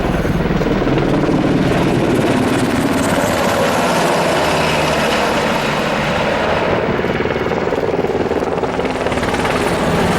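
Firefighting aircraft flying over, its engine and propeller noise loud and steady.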